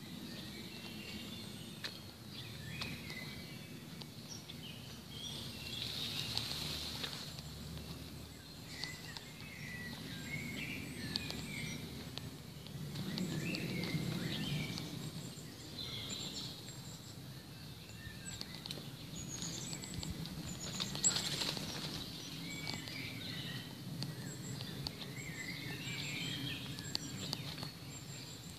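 Small birds singing and chirping in short scattered phrases, over a low background rumble that swells around the middle. A few faint ticks are also heard.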